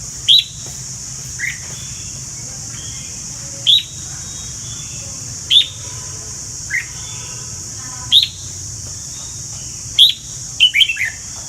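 A bird giving short, sharp chirps that slide down in pitch, one every second or two, about ten in all, with a quick run of three close together near the end. A steady high hiss runs underneath.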